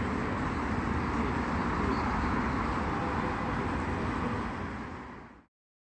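Steady outdoor background noise with a low rumble, like street or traffic ambience, fading out about five seconds in.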